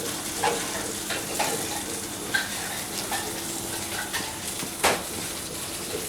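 Oil sizzling with a steady hiss in a frying pan on the stove, with scattered light taps and knocks of a knife and kitchenware; the loudest knock comes about five seconds in.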